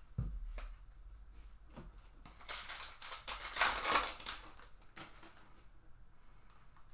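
Trading-card pack wrapper torn open and crinkled, with scattered clicks of cards being handled. The crinkling is loudest about halfway through and dies away in the last two seconds.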